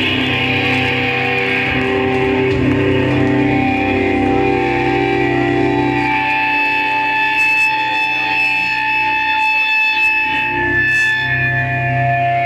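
Electric guitar played live through effects with echo, holding long ringing notes that change pitch every few seconds, without a drum beat.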